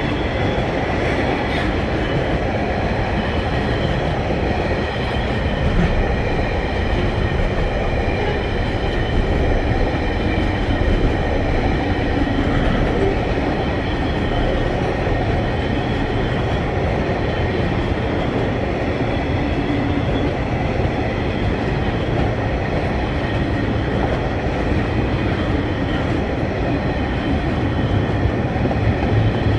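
TasRail freight train passing close by, its wheels rolling steadily over the rails with no letup.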